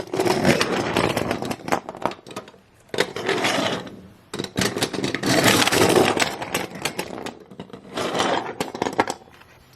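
Toy cars rattling and clattering as they roll along a hard surface in a race, in several stretches of rough, clicky noise with short lulls between them.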